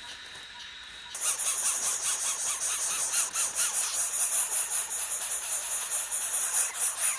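Shrill, rapid squealing chirps from birds, starting abruptly about a second in and going on steadily.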